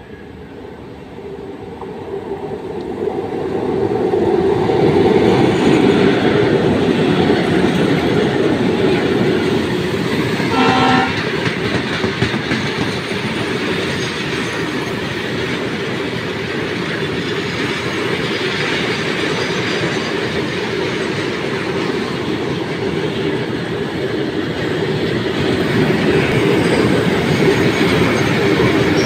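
Electric freight train of open box wagons passing close by. Its rumble and wheel clatter build over the first few seconds, then run on steadily as the wagons roll past. A short horn blast sounds about eleven seconds in.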